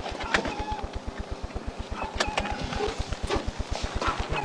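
Idling vehicle engine heard as a steady, rapid low pulse, about ten beats a second, with a few faint clicks over it.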